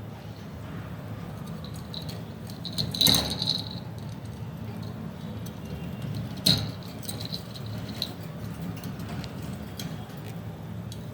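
Pet budgies moving about their cage: scattered light clicks and rattles, with a louder clatter and a brief high chirp about three seconds in and a sharp click about six and a half seconds in, over a steady low hum.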